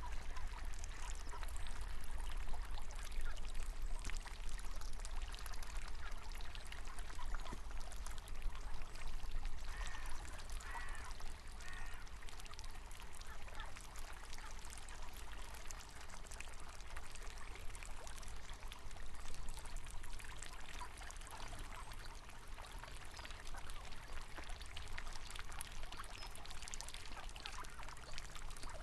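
River water running and trickling steadily, with ducks quacking a few times about ten seconds in.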